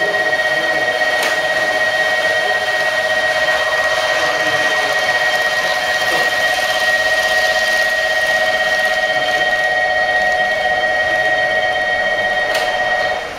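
A steady, high electric whine of a few fixed tones with a faint warble, which cuts off abruptly near the end.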